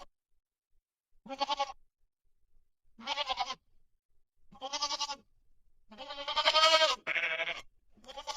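A farm animal bleating: about six short, quavering calls in a row, each under a second long with brief silences between.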